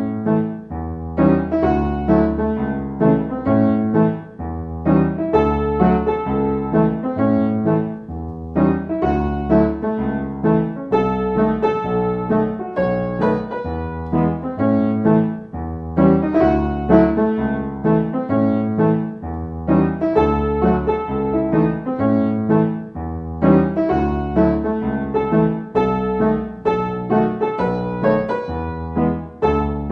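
Background music played on piano, with a steady bass line and a repeating pattern of notes.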